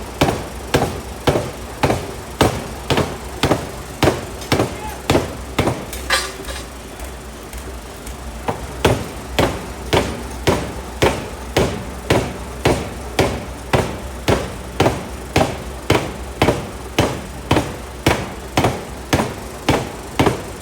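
750 kg pneumatic forging hammer striking a 400 kg metal blank in a steady rhythm, a little over two blows a second. The blows stop for about two and a half seconds partway through, leaving the hammer's low running hum, then resume at the same pace.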